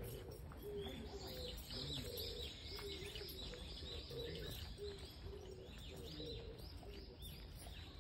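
Wild birds calling: a dense run of quick, high chirps over a series of short, low, steady notes.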